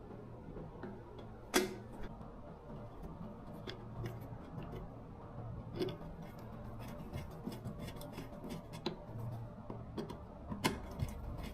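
Irregular light clicks and taps, with a sharper click about a second and a half in and another near the end, over a low steady hum.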